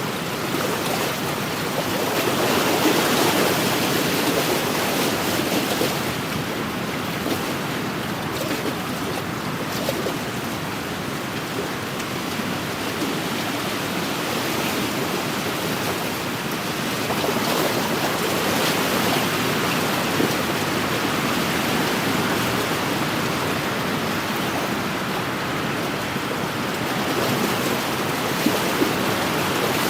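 Wind-driven waves washing against a lakeshore in a steady rush, with gusts of wind; the sound swells a little a few times.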